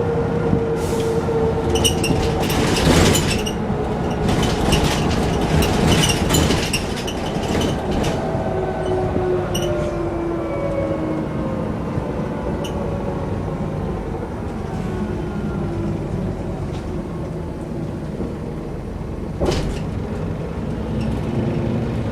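Mercedes-Benz O405 N² city bus heard from inside the passenger cabin while driving: engine and Voith-automatic drivetrain running, with rattling and clatter from the interior during the first several seconds. About eight seconds in, a whine slides down in pitch as the bus slows, and a single sharp knock comes near the end.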